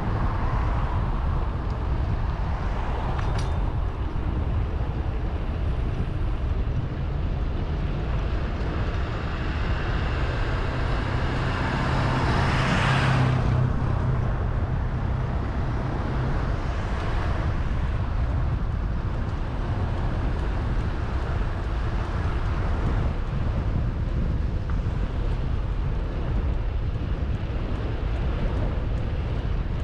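Steady low rumble of wind and road noise from a moving bicycle, with a car passing about twelve to thirteen seconds in and a sharp click a few seconds in.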